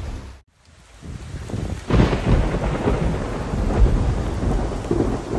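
A clap of thunder about two seconds in, followed by rumbling and steady heavy rain.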